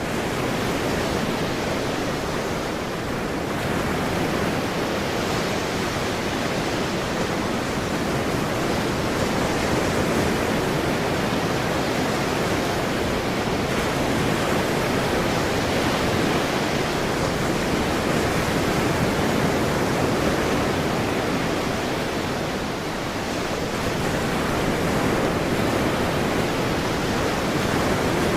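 Ocean surf: a continuous wash of waves, an almost even rush with only slight swells and dips in loudness.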